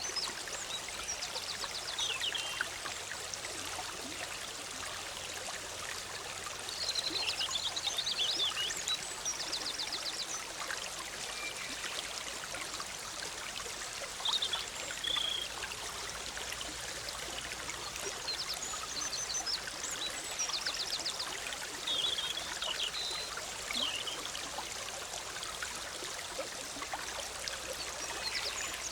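A forest stream babbling steadily, with songbirds singing short high chirps and trills every several seconds.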